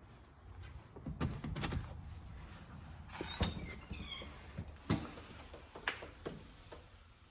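A few scattered knocks and clunks, spaced irregularly over a low rumble of handling noise.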